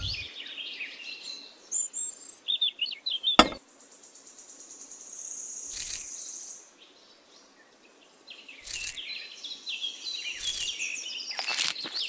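Small birds chirping and twittering, with a steady high insect-like trill in the middle and a single sharp click about three and a half seconds in.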